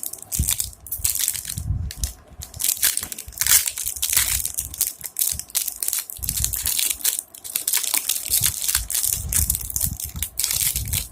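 Plastic packaging crinkling and crackling as it is handled close to the microphone, with a few dull handling thumps.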